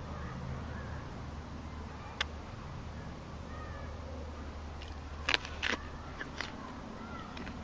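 Mule deer biting and crunching an apple held in the hand: a few sharp crunches, one about two seconds in and a cluster of louder ones in the second half, over a low steady hum.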